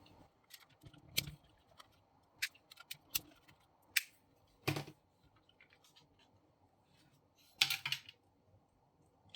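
Scattered light clicks and taps of plastic parts being handled as a DYMO LabelManager 100 label maker is taken apart, with a louder cluster of clicks near the end.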